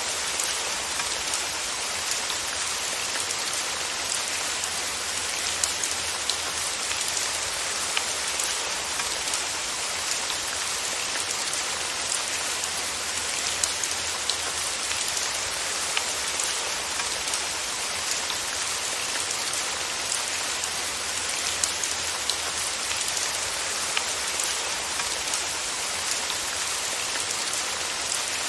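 Steady rain falling on a surface, an even hiss with the patter of scattered drops.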